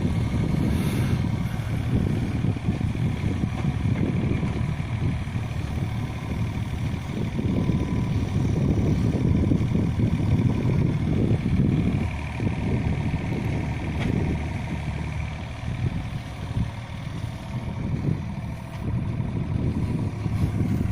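Yanmar ViO35-3 mini excavator's diesel engine running while it works, its rumble rising and easing with the load, with a faint steady whine above it.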